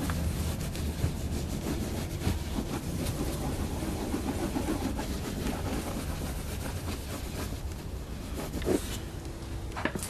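Scuffing and rubbing noises from a cloth and hands working over an RV's painted side panel, with scattered small clicks over a steady low rumble.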